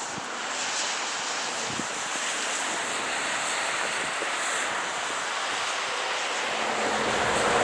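Steady rushing noise of wind outdoors in a snowstorm, slowly growing louder toward the end.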